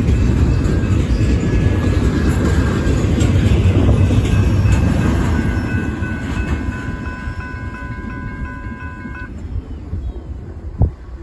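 Double-stack intermodal freight train rolling past, its wheels rumbling and clacking over the rails, then fading as the last well car goes by. A grade-crossing warning bell rings steadily over it and cuts off about nine seconds in, with a single sharp click near the end.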